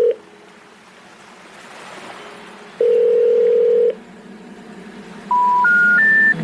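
Telephone call tones: a low ringback tone buzzing for about a second, then, near the end, three short tones stepping up in pitch. That is the special information tone, the intercept signal that a call cannot be completed, as before a 'number not in service' message.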